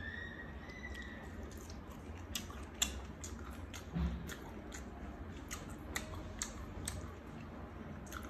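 Close-up mouth sounds of a person chewing a mouthful of fresh herb leaves dipped in sauce: a string of short wet clicks and smacks, with a soft thump about four seconds in.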